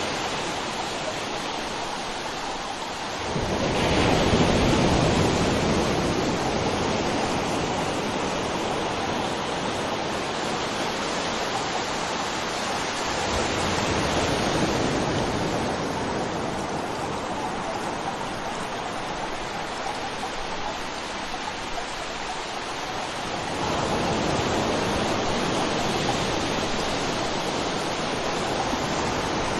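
River water flowing over rocks, a continuous rushing that swells louder a few seconds in and again near the end.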